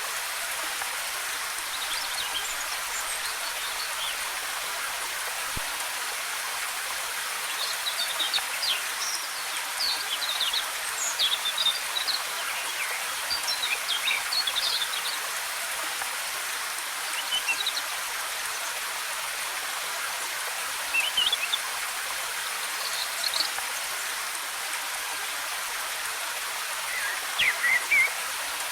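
Waterfall running with a steady rushing hiss, with small songbirds chirping over it in short scattered phrases, most often in the middle stretch and again near the end.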